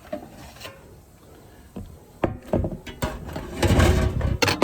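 Air fryer basket drawer being opened and the bread inside handled: a few clicks and knocks, then a louder rattling clatter about three and a half seconds in, with sharp clicks near the end.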